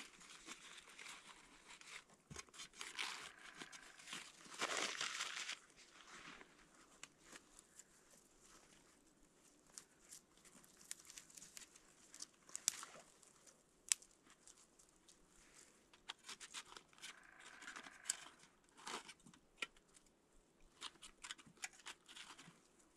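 Irregular crinkling and rustling of something being handled, in uneven swells, with many scattered sharp clicks and snaps.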